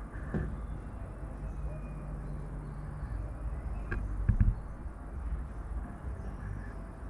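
Steady low rumble of city background noise with a few knocks, the loudest a thump a little past four seconds in.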